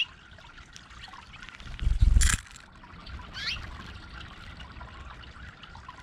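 Water trickling steadily over a stone fountain. About two seconds in, a brief loud rush of noise stands out above it, and about a second later there is one quick rising bird chirp.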